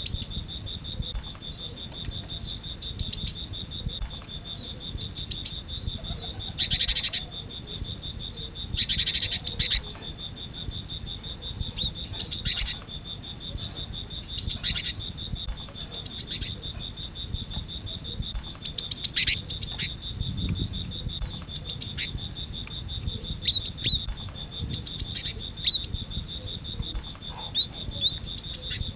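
Cinereous tit (gelatik batu) singing short phrases of quick, high, downward-slurred notes, repeated every second or two, with two harsh, raspy bursts between them. A steady high-pitched tone runs underneath.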